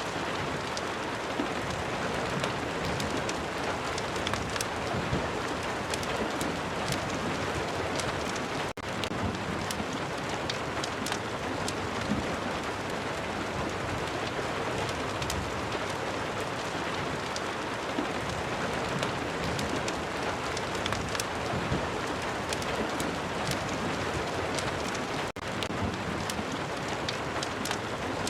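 Steady rain, a dense even hiss sprinkled with short sharp ticks. The sound drops out for an instant twice, about nine seconds in and again near twenty-five seconds.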